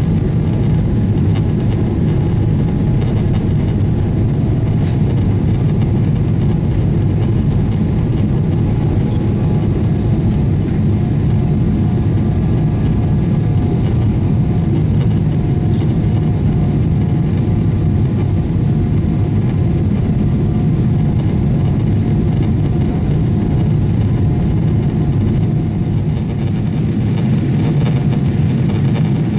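Steady engine and airflow roar heard inside the cabin of a Boeing 777-300ER, from its GE90 turbofans, with a faint steady whine above it.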